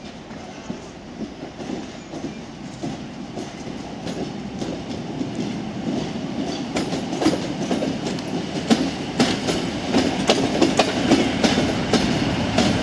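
PKP class EN57 electric multiple unit rolling over the station points, its wheels clattering over rail joints and frogs. It grows louder as it approaches, and the clacks come thicker and sharper over the second half.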